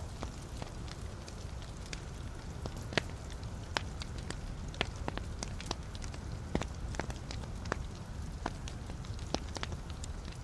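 Wood fire burning in a fireplace: a steady low rumble of the flames under irregular sharp crackles and pops from the logs, several a second.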